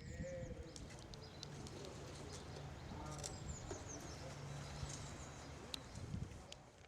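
Faint outdoor background: a low engine hum that comes and goes in the distance, a few high chirps and scattered clicks.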